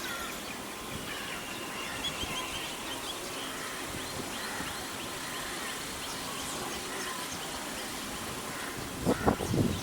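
Outdoor bird ambience: faint, short high chirps and calls from small birds over a steady background hiss, with a louder burst of sound near the end.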